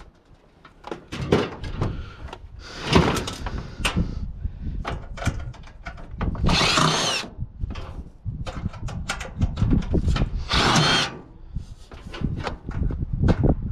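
A power drill runs in three short bursts, about a second each, its whine shifting in pitch as it backs out screws from a water cooler's housing. Knocks and clatter of metal and plastic parts being handled fill the gaps between bursts.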